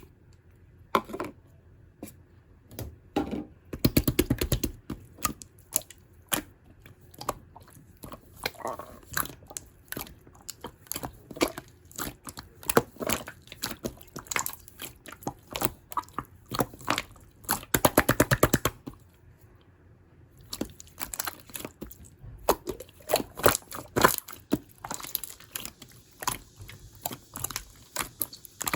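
Clear slime being squished, pressed and poked by hand, making a string of sticky clicks and small popping crackles. Twice, once a few seconds in and again past the middle, the clicks come in a dense rapid run.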